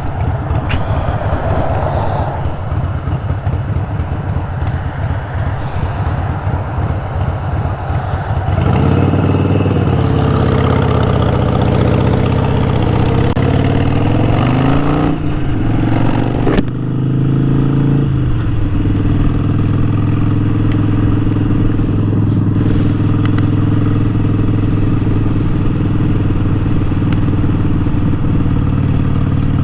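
Harley-Davidson Sportster 1200's air-cooled V-twin engine running under the rider, first mixed with wind and road noise, then its note rising and falling with the throttle for several seconds. After a sharp click about two-thirds of the way in, the engine settles into a steady, even note.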